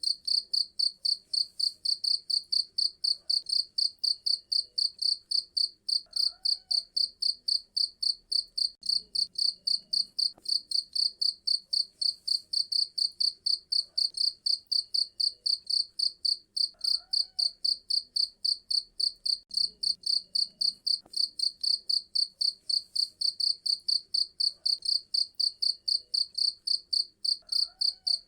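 Crickets chirping in a steady, high-pitched rhythm of rapid, evenly spaced chirps, several a second, with no pause.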